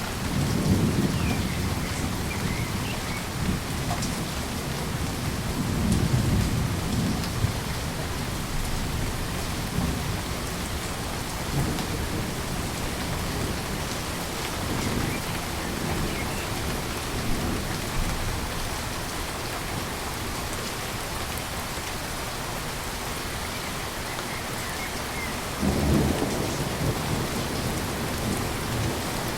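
Steady rain falling, with low rolls of thunder: one about a second in, another around six seconds in, and a sharper-starting roll near the end.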